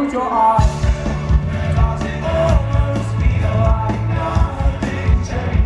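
Rock music played live by a band, with a steady drum beat about twice a second, a bass line and a sung or melodic line over it.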